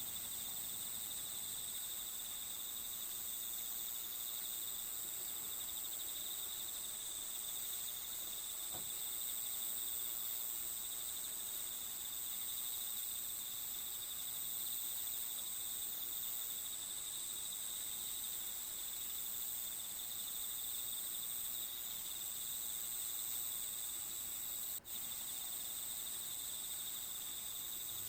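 Crickets chirring in a steady, continuous high-pitched trill, with one momentary dropout near the end.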